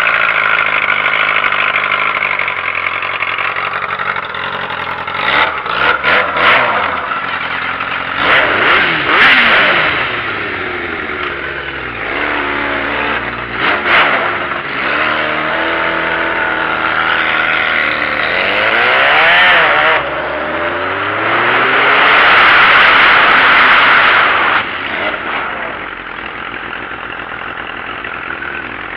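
Sport bike engine being revved several times, its pitch rising and falling with short sharp throttle blips, and a long held high rev in the last third.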